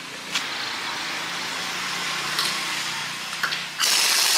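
Tire-repair tool noise: a steady mechanical hiss with a faint hum and a few sharp clicks, then a much louder hiss starts suddenly near the end.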